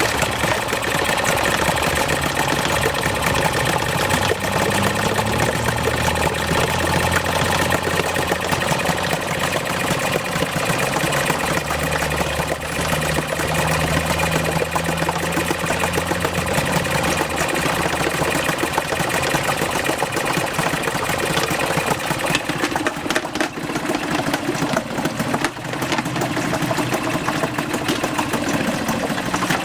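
4 hp Yamaha two-stroke outboard motor running steadily, its engine note shifting in pitch a few times. The owner says its carburettor needs going through and adjusting.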